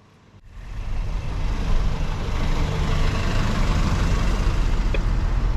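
Steady low rumble of a motor vehicle with road noise, cutting in about half a second in.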